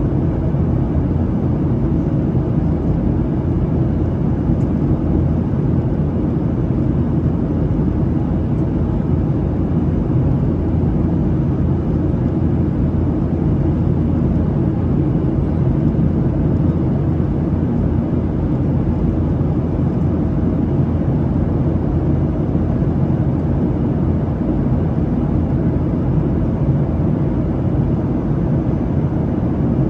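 Steady cabin noise inside a climbing Boeing 737-700 airliner: a continuous low rumble of engine and airflow noise that does not change.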